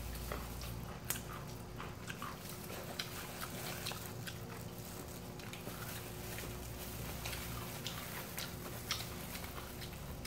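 Close-miked eating of fried chicken: two people biting and chewing, with irregular small crunches and wet mouth sounds throughout.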